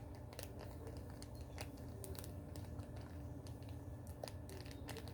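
Faint, irregular light clicks and taps, about a dozen, from small parts of a volcano experiment kit being handled.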